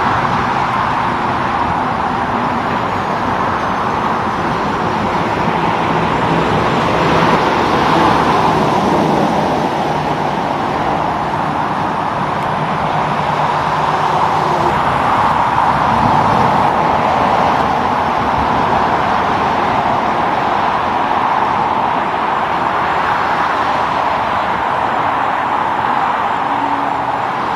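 Highway traffic: tyre and engine noise of trucks and cars rolling past, steady throughout and swelling twice as vehicles go by, about a quarter of the way in and again just past the middle.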